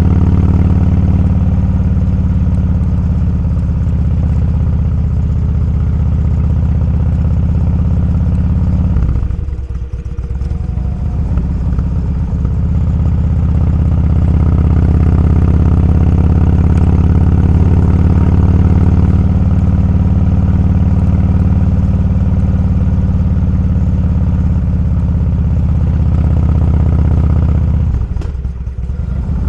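Motorcycle engine running on the road, a steady low engine note. The throttle eases off about nine seconds in and again near the end, the note dropping briefly before it pulls again.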